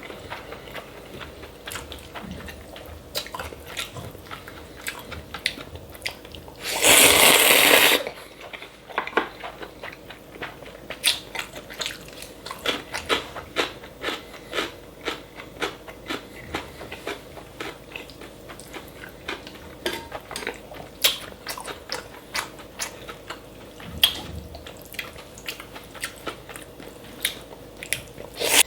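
Close-miked eating sounds: steady chewing with many sharp, crunchy clicks, and one loud slurp lasting about a second, some seven seconds in.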